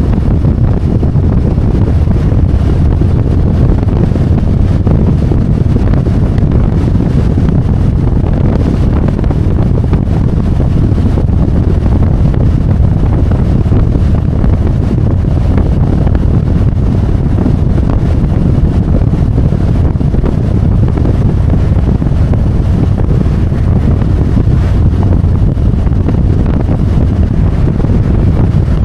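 Steady wind rush buffeting the microphone while riding a Harley-Davidson Road Glide, over the low, even running of its V-twin engine.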